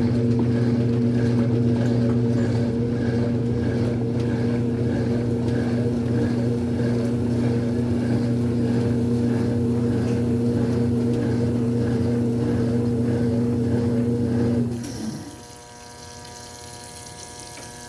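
Brastemp Super Filtromatica washing machine running with a steady motor hum and a regular faint pulsing. About fifteen seconds in the motor shuts off and winds down, leaving a quieter steady hum.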